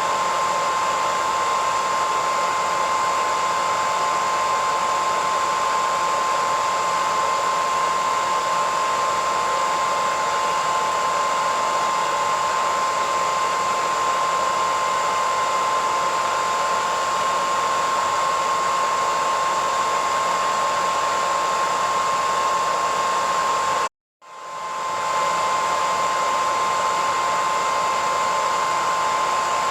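Hair dryer running steadily: a rushing airflow with a high whine from its motor and fan. Near the end it cuts out to silence for a split second, then fades back in.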